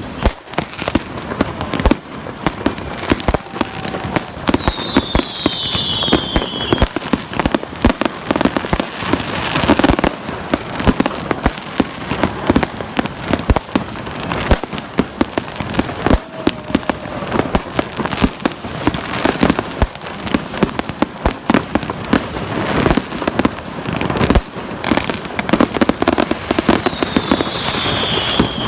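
Fireworks going off in a dense, continuous barrage of bangs and crackles. A high whistle falling in pitch cuts through twice, about four seconds in and again near the end.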